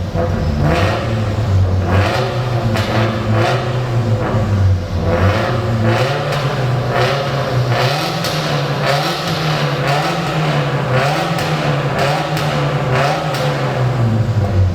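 Subaru Impreza STI's turbocharged flat-four exhaust, loud and echoing in a tunnel. A steady low drone runs under short, sharp revs that come every second or so.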